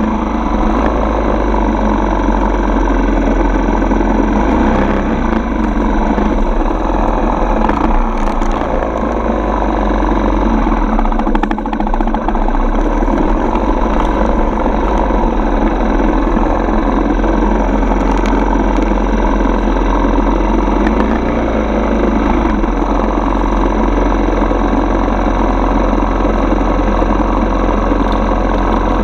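Four-stroke dirt bike engine running steadily under way, with only small changes in pitch and no sharp revs.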